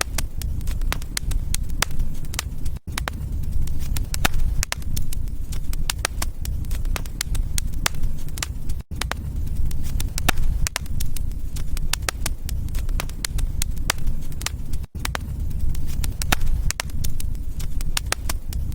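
Wood fire in a fireplace crackling and popping over a steady low rumble of flames, with brief dropouts about every six seconds.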